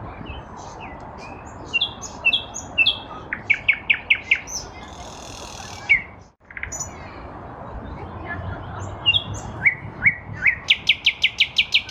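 Nightingale singing a string of varied phrases: short whistled notes, fast runs of repeated notes and a buzzy rattle. The song stops briefly about six seconds in. Near the end comes a rapid series of repeated notes, each sliding down from high to lower.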